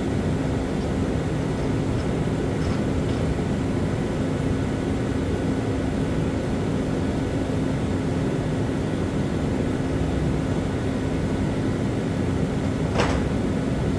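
A steady mechanical drone with a constant low hum, and one sharp tap about thirteen seconds in.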